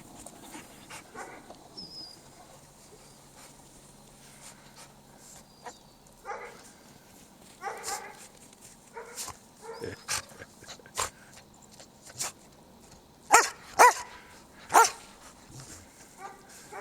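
Norwegian Elkhounds playing, giving short scattered whines and yips, then three loud barks in quick succession near the end.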